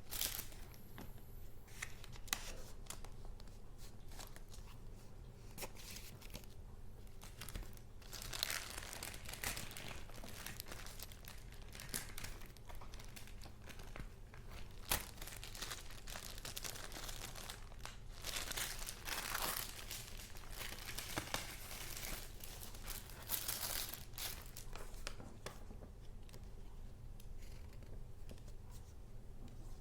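Paper being handled: sheets and paper pieces rustling and crinkling in irregular bursts, with sharp clicks and taps among them.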